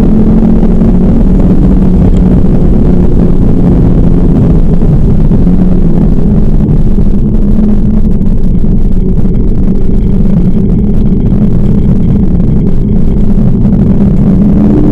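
2010 Ford Focus RS's 2.5-litre turbocharged five-cylinder engine, loud from inside the cabin under hard driving on track. The note is strong at the start, thins from about six seconds in as the car works through corners, and picks up again at the very end.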